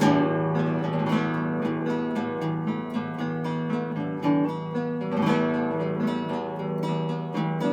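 Acoustic guitar music: plucked melody notes over chords, with strummed chords near the start and again about five seconds in.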